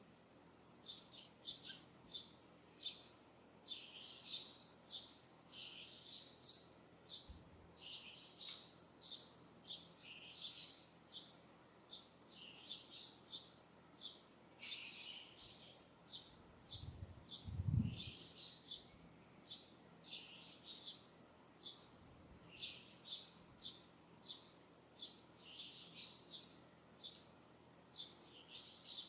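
A bird chirping over and over, short high chirps at about one to two a second. About two thirds of the way through there is a brief low rumble, louder than the chirps.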